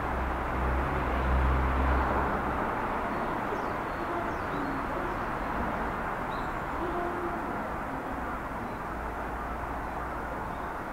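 Electric train running with a low rumble that is strongest in the first couple of seconds and then slowly fades as it draws away. A few faint bird chirps come through the noise.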